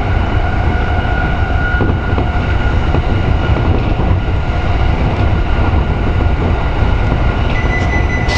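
Electric commuter train running on the JR Tokaido Line, heard from inside the front car: a steady rumble of wheels on rail, with a whine that fades about two seconds in. Near the end a steady high-pitched tone comes in abruptly, just ahead of the emergency stop.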